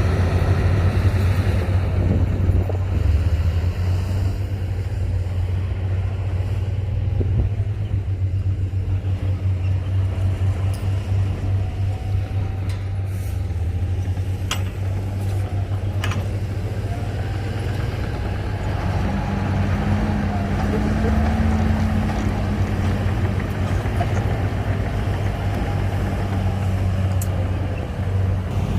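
Heavy diesel engine of earthmoving machinery running steadily at a low pitch, rising a little in pitch about two-thirds of the way through. Two sharp clicks come midway.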